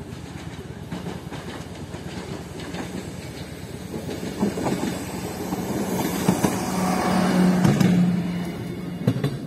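SA135 diesel railcar approaching and passing close by over a level crossing. Its engine hum and rolling noise build to their loudest about three-quarters of the way through, with a few sharp wheel clacks over the rail joints.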